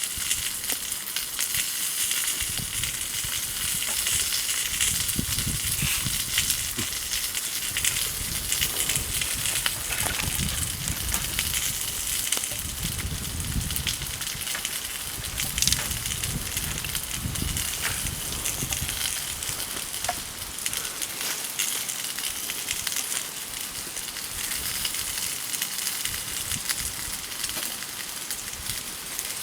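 Wood campfire burning: a steady hiss with many small, quick crackles and pops. A low rumble runs under it through the first two-thirds and then fades.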